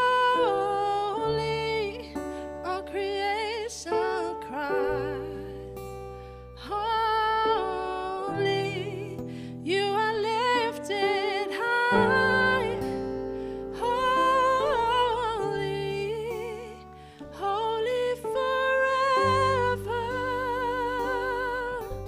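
Slow worship music: a voice singing held notes with vibrato over sustained low chords.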